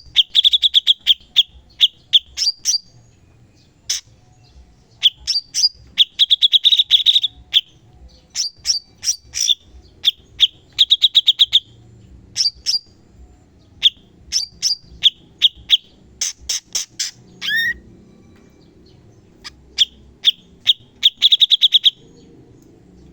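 Cucak cungkok singing in bursts of rapid, sharp, high notes and quick rattling trills, each burst broken off by a short pause: the fast, aggressive 'tembakan' song used as a training recording for caged birds.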